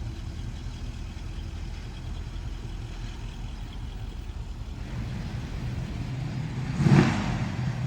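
A motor vehicle's engine running steadily as a low hum, with a short loud swell about seven seconds in.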